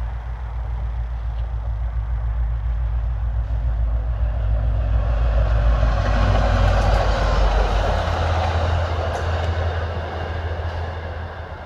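A train passing with a steady low rumble. It grows louder toward the middle, is loudest as the cars go by about six to eight seconds in, then fades as the train moves away.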